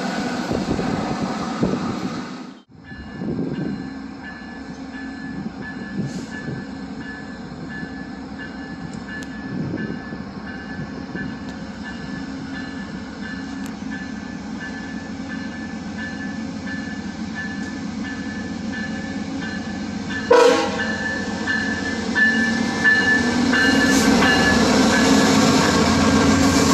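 Via Rail passenger train passing, a steady rumble that grows louder toward the end. The locomotive's horn sounds in long held blasts from about three-quarters of the way through.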